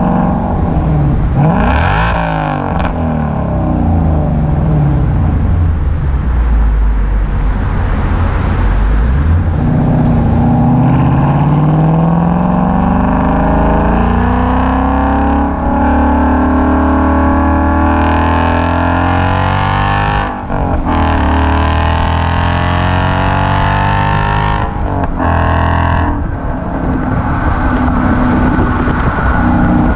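2017 Ford Mustang GT's 5.0 L V8 heard through a Corsa Extreme cat-back exhaust while driving. The pitch climbs under acceleration and drops back several times, with abrupt cut-offs a little past the middle and near the end.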